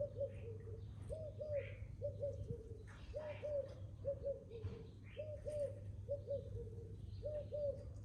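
A dove cooing in a steady run of short phrases, each a pair of rising-and-falling notes followed by lower notes, about one phrase a second. Small birds chirp higher over a steady low hum.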